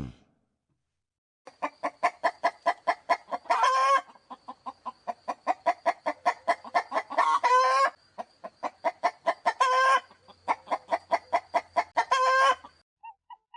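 Hen cackling: runs of quick clucks, each ending in a drawn-out squawk, repeated four times after a short silence.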